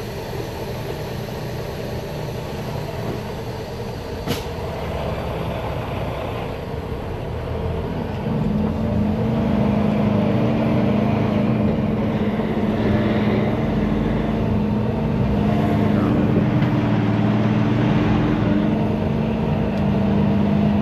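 Semi truck's diesel engine running, growing louder about eight seconds in with a steady low drone, and a single sharp click about four seconds in.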